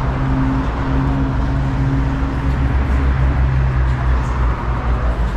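City street traffic, with a nearby vehicle engine running as a steady low drone.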